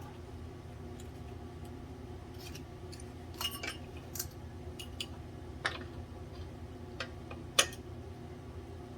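Metal tools and boiler parts being handled, giving scattered sharp metallic clicks and clinks that start about three and a half seconds in, the loudest near the end. A steady low hum runs underneath.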